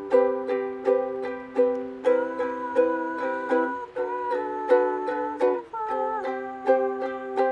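Ukulele strummed in a steady rhythm of about two to three strokes a second, an instrumental passage with chord changes about two, four and nearly six seconds in.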